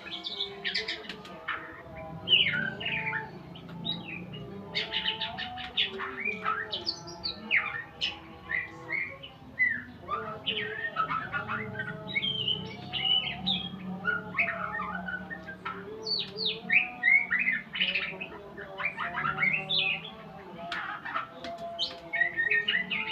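Songbird singing continuously: a rapid, varied stream of chirps, trills and short whistled phrases, with fainter steady tones underneath.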